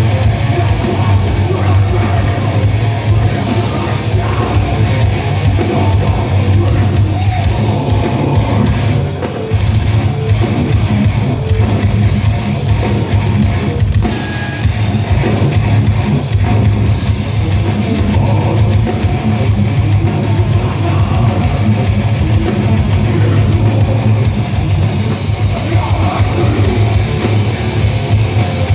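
Heavy metal band playing live: distorted electric guitars, bass and pounding drum kit, with some vocals, loud and dense throughout.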